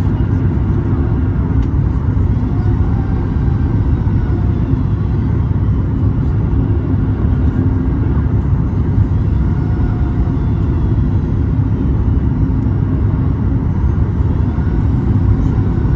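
Steady, loud rumble of a Boeing 737 MAX 8 heard inside the passenger cabin: its CFM LEAP-1B engines and the airflow over the airframe, with a few steady engine tones under the noise.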